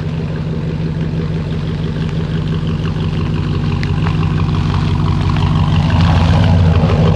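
Pickup truck engine running steadily with a deep, low tone, growing slightly louder in the last few seconds.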